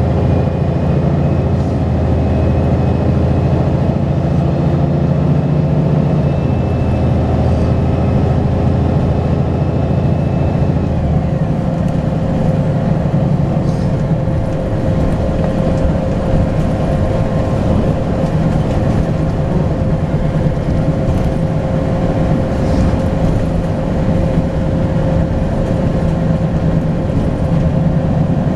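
Volvo B10BLE bus diesel engine pulling under load with a faint turbo whistle rising slowly over about ten seconds, then easing off about eleven seconds in as the whistle stops and the bus runs on more quietly with a steady whine.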